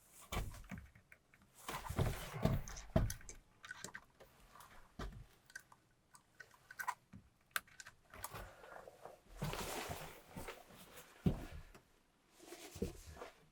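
Irregular knocks, clicks and rustling of things being handled in a small room, in scattered bursts with short pauses between.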